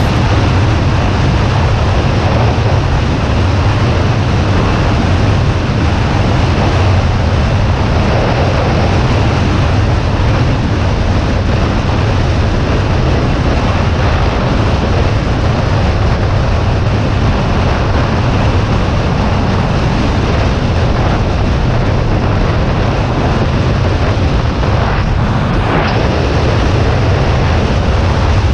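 Steady, heavy wind noise buffeting the microphone of a motorcycle under way, a deep constant rumble with an even rush over it and no clear engine note.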